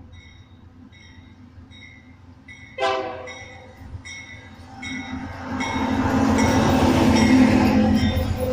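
A train approaching and passing, its rumble growing loud in the second half. A short blast of the train horn sounds about three seconds in, and a ringing tone repeats about once every two-thirds of a second throughout, like a level-crossing warning bell.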